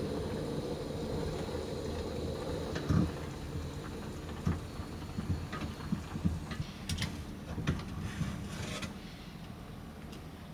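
A vehicle running with a steady low hum, with scattered knocks and taps over it, several of them bunched in the middle.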